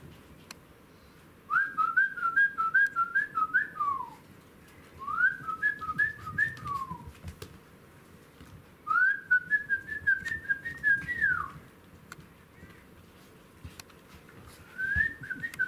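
A bird singing: repeated phrases of quick, high whistled notes, each ending in a falling slide, heard three times with pauses between and starting again near the end.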